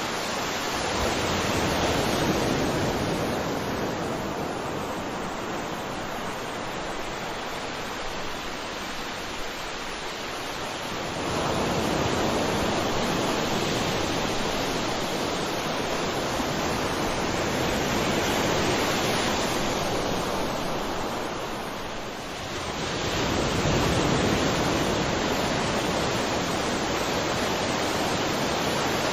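Sea waves washing onto the shore: a steady rush of surf that swells and ebbs, with a fresh wave surging in twice, about eleven seconds in and again about twelve seconds later.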